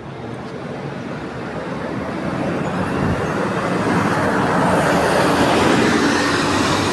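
Scania K230UB single-decker bus pulling away from a stop, its diesel engine and road noise growing steadily louder as it accelerates past.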